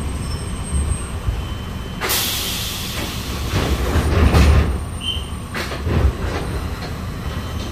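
Diesel railcar running, heard from inside the car: a steady engine and wheel rumble, with a loud burst of hiss about two seconds in and a few short knocks from the wheels on the track in the second half.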